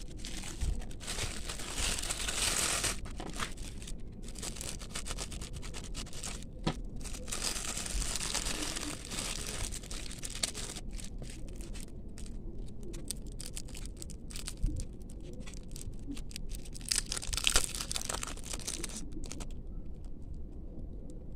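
Packaging being torn open and crinkled by hand, in several bouts of rustling tearing with small clicks and taps between them.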